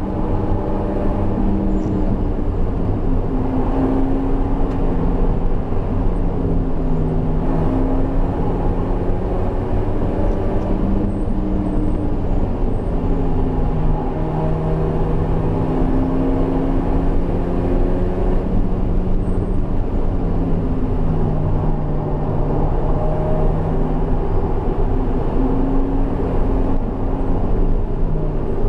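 Highly modified BMW E36 engine under hard track driving, heard from inside the caged cabin: revs climb and drop back repeatedly through the gear changes, over steady road and wind noise.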